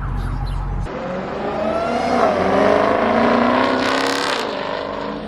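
Motorcycle engine revving as it rides past. The pitch climbs to a peak a couple of seconds in, then drops away as it fades near the end.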